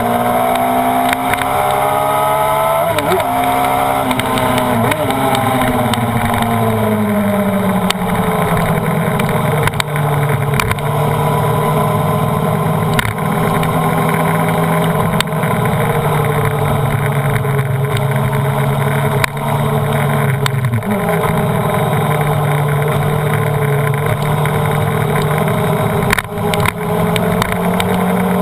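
Honda CBR929RR's 929 cc inline-four engine pulling hard on a race track, heard from an onboard camera on the bike. The engine note rises and falls through gear changes in the first few seconds, holds steady through the middle, and drops about twenty seconds in.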